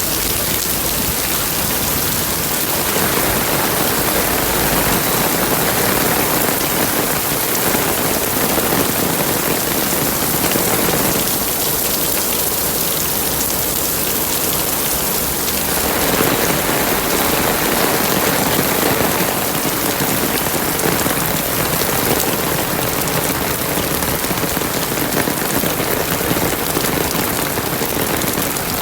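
Heavy rain falling steadily, easing slightly for a few seconds around the middle before coming down harder again.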